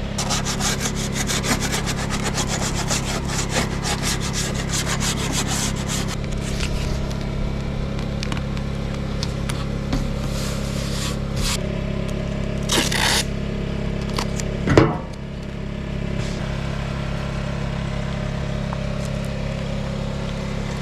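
Rapid rubbing and scraping strokes, densest for the first several seconds, over a steady low mechanical hum. There is a louder scrape a little past the middle and a single sharp knock soon after.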